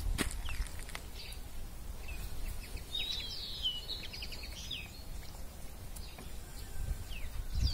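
Small birds chirping and twittering in short bursts, busiest a few seconds in and again near the end, over a low steady background rumble.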